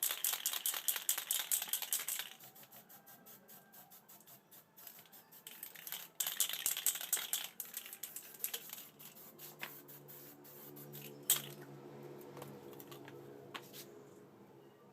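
Aerosol can of heat-resistant spray paint hissing in two bursts, about two seconds at the start and a shorter one around six seconds in, with rapid clicking rattles throughout. Faint music comes in during the second half.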